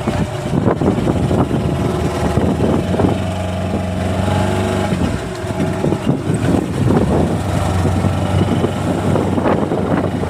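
An engine running steadily at idle, with a low even hum, over irregular rough noise that is strongest in the first few seconds.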